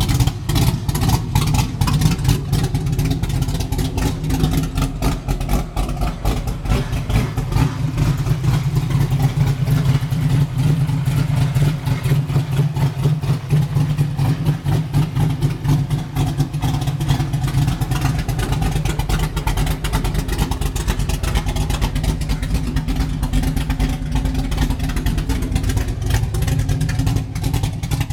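1995 Mustang GT's 5.0-litre V8, fitted with new heads, cam and intake, running steadily on its first start-up.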